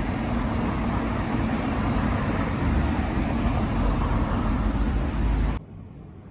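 Steady rumbling vehicle noise with a heavy low end, cutting off abruptly near the end.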